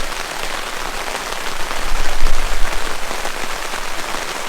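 Steady rain coming down hard, an even hiss of falling drops that swells louder for a moment about two seconds in.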